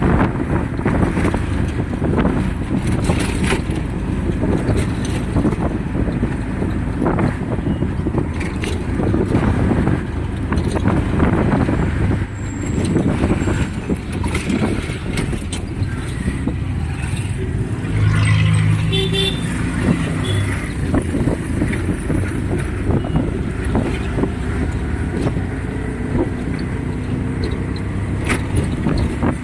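Road vehicle noise: a steady, loud rumble of a vehicle in motion on the road, with scattered knocks and rattles and a short horn toot about eighteen seconds in.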